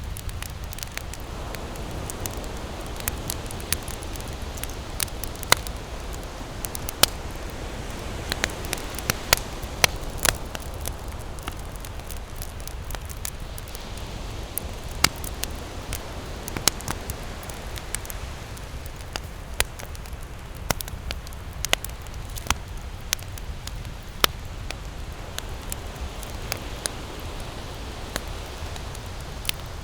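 Wood campfire burning and crackling, with irregular sharp pops and snaps over a steady hiss of flames and a low rumble underneath.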